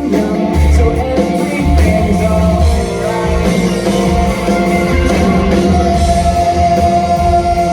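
Rock band playing live: distorted electric guitars, bass and drums with singing, loud and dense, heard as a crowd-side recording.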